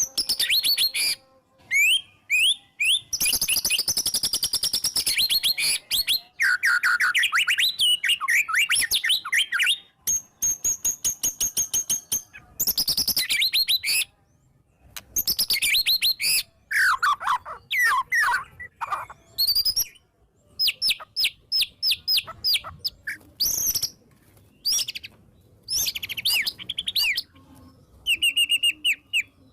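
White-rumped shama (murai batu) singing loudly and continuously, a varied song with fast runs of repeated notes, trills and whistled phrases sliding up and down, broken by short pauses between phrases.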